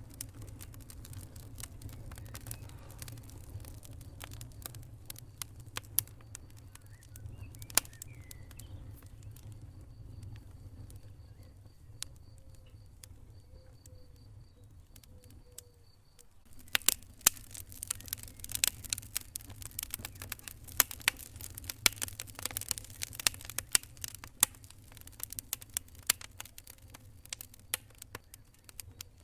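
Wood fire in a fireplace crackling, with irregular sharp pops and snaps over a steady low rumble. The pops grow much denser and louder a little over halfway through.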